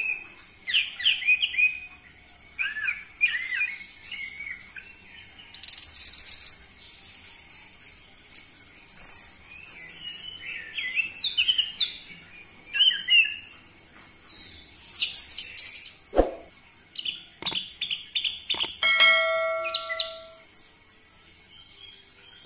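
Orange-headed thrush singing a long run of loud, varied phrases of quick whistles, trills and chatter that keep changing in pitch. A couple of sharp clicks come about two-thirds of the way in.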